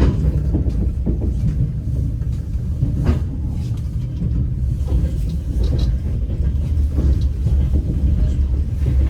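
Moving passenger train heard from inside the carriage: a steady low rumble of the running gear, with an occasional knock of the wheels on the rails.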